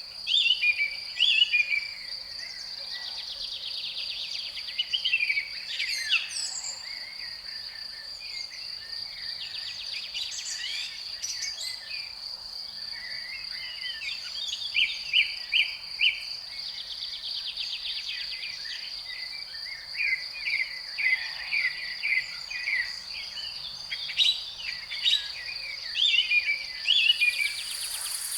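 Crickets trilling in a steady high note, with a songbird singing short phrases of quick repeated notes over them again and again. Near the end a higher, hissing insect sound comes in.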